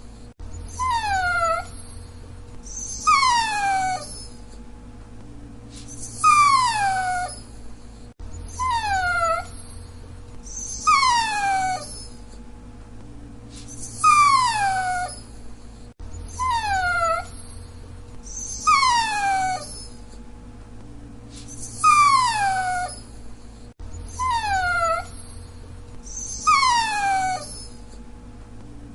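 Dachshund whining: a string of high-pitched whines, each sliding down in pitch over about a second, repeating every two to three seconds, over a faint steady hum.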